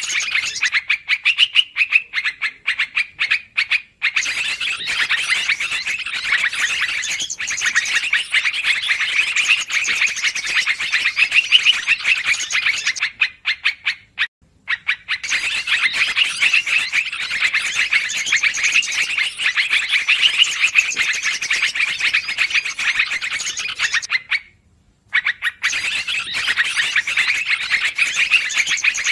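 Yellow-vented bulbul (trucukan) lure call: a dense, busy run of quick chattering notes. It breaks off briefly about every ten seconds and then starts again, as a looped recording does.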